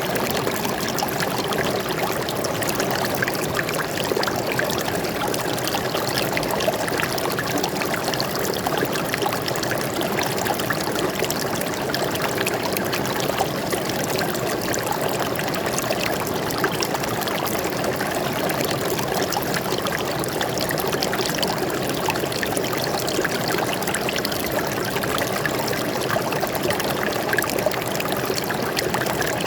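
Water flowing and splashing over rocks in a forest stream, a steady babble with many small trickles and splashes.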